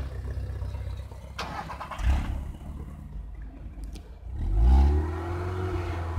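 VW Polo fitted with an aftermarket performance exhaust, its engine idling, then blipped once about four and a half seconds in, the pitch rising and falling back to idle. A short knock is heard about two seconds in.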